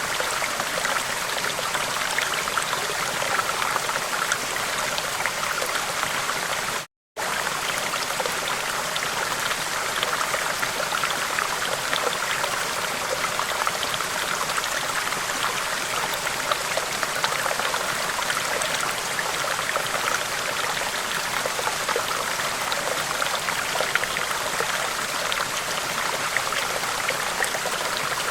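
Steady rushing of a river's flowing water, cutting out to silence for a moment about seven seconds in.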